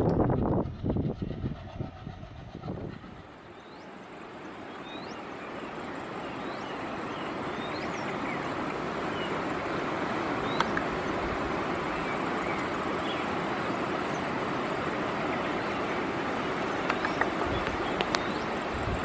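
A WDM-3A diesel locomotive's engine and wheels rumble and knock for the first few seconds, then fade out. Steady heavy rain takes over as an even hiss that swells over a few seconds and then holds.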